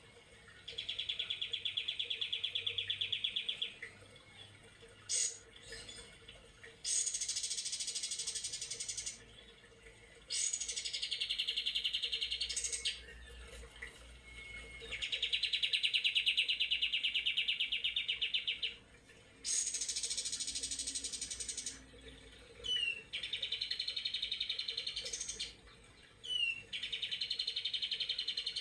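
White-rumped shama (murai batu) singing its 'trotol' song: long phrases of very rapid repeated notes, each one to three seconds, about eight of them with short pauses between, switching between a lower and a higher pitch, some opening with a quick sweep.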